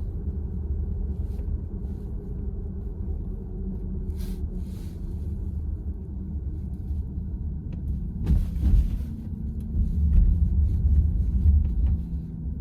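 Low road and tyre rumble inside the cabin of a moving VW ID.4 electric car, with a few brief knocks and louder surges from about eight seconds in, as over bumps in the road.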